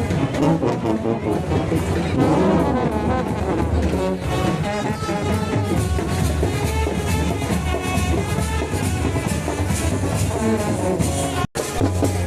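Brass band playing loudly, trumpets and trombones over a steady low beat, cutting out for a split second near the end.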